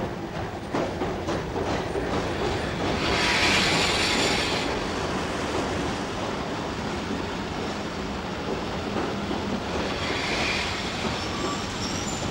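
Passenger train drawn by a class 38 steam locomotive rolling slowly into a station platform, its wheels clicking over rail joints. A high brake squeal comes about three seconds in and again near ten seconds.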